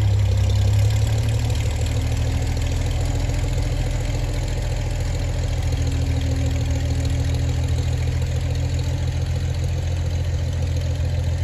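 An engine idling steadily at a low, even pitch.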